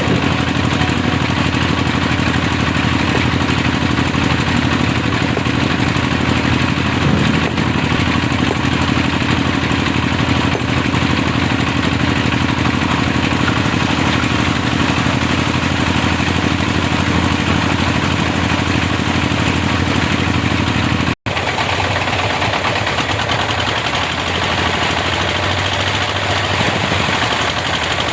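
Heavy earthmoving machinery's engine running steadily, with a brief dropout about three-quarters of the way through.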